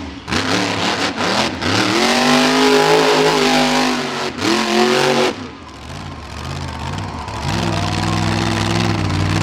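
Monster truck engine revving hard, its pitch swinging up and down several times, with a few sharp knocks in the first second or so. Near the end it settles into a steady, held note.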